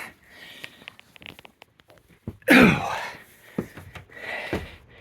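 A man climbing up out of a boat's engine compartment: faint knocks and scuffs of feet and hands, then a loud grunt of effort falling in pitch about halfway through, followed by a knock and a hard breath.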